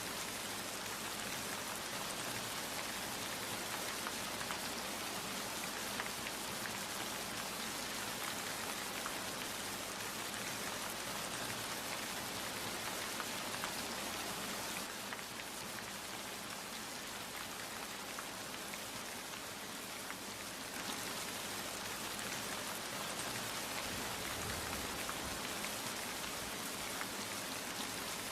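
Steady rain falling, with many small drops pattering on a surface. It eases a little for a few seconds midway, then picks up again.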